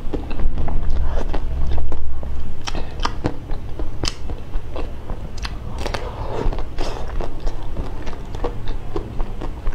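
Close-miked chewing of a mouthful of chocolate-coated bar: wet mouth sounds with many irregular crunchy clicks and crackles as the coating is broken up.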